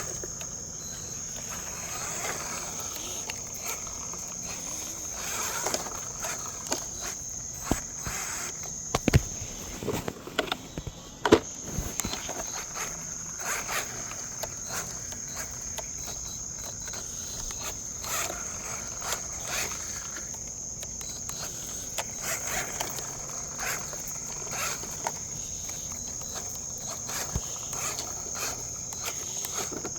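Steady, high-pitched chirring of crickets or other insects, with scattered light clicks and two sharp knocks, about 9 and 11 seconds in.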